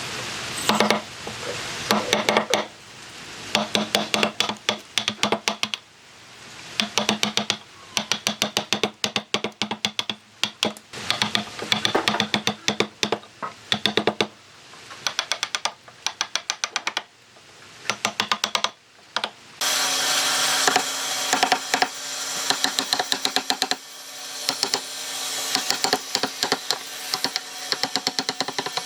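Rapid bursts of tapping and knocking, many quick strikes in clusters with short pauses between. About two-thirds of the way in the sound changes to a denser, continuous clatter of clicks over a steady hiss.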